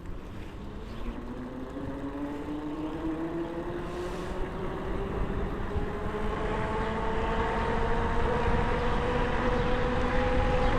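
An e-bike's electric motor whining, its pitch rising steadily as the bike gathers speed, over a low rumble of wind on the microphone.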